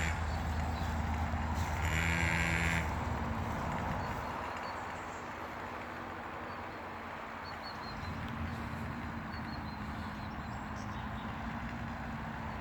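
Small motocross bike engine running steadily, easing off about four seconds in and picking up again near the end. A short pitched call sounds about two seconds in.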